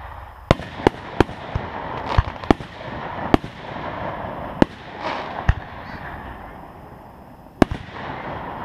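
Aerial fireworks bursting in the sky: a run of about nine sharp bangs at irregular intervals.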